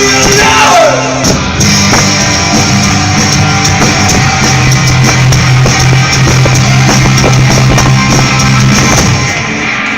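Rock band playing loud: electric guitar over bass and drums, with a falling guitar slide early on and held low bass notes.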